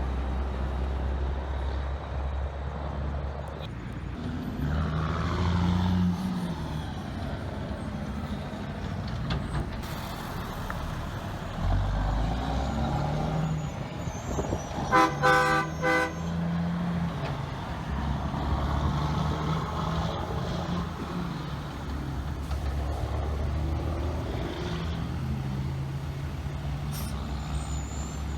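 Vehicles passing on a road, with engine and tyre noise swelling and fading. About halfway through, a quick series of four or five short blasts on a multi-tone air horn, the train horn of the straight-piped 1980s Western Star 4964 truck.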